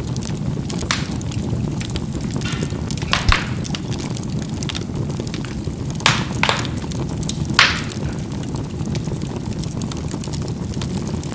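Charcoal burning in a fireplace: a steady low rush of fire with a handful of sharp pops as the coals crack, the loudest about three, six and seven and a half seconds in.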